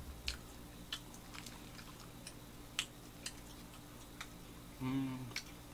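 Close-miked chewing of toasted sandwiches: soft, irregular mouth clicks and smacks over a steady low hum, with a short hummed voice sound about five seconds in.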